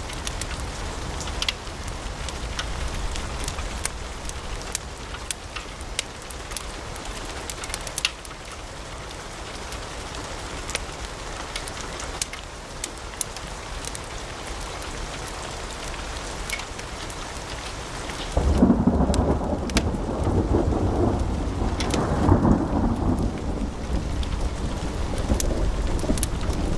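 Wood fire in a fireplace crackling steadily, with frequent sharp pops and snaps of burning logs. About two-thirds of the way through, a louder low rumble of the fire comes in and continues under the crackle.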